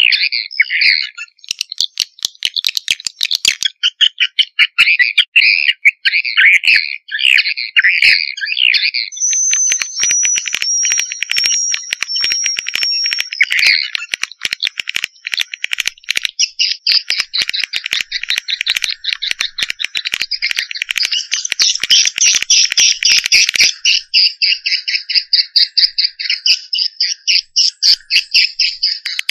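Swiftlet lure recording: dense, rapid chirping and twittering calls of swiftlets, with a thin high whistle from about nine to fourteen seconds in.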